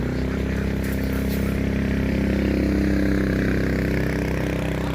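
A motor vehicle's engine running steadily, growing louder toward the middle and easing off near the end, as when it drives past or works under load.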